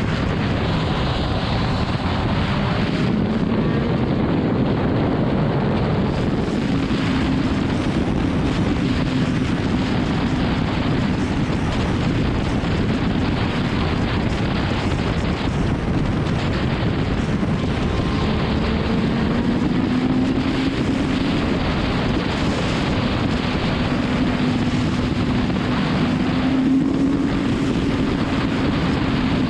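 BMW S1000RR inline-four engine running at road speed, its note rising and falling gently with the throttle, under heavy wind noise on the microphone.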